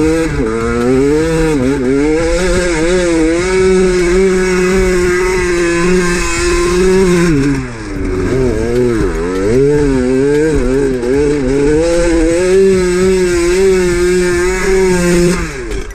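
Dirt bike engine revving up and down under load while climbing a steep sand slope, with a dip about halfway, then cutting out near the end.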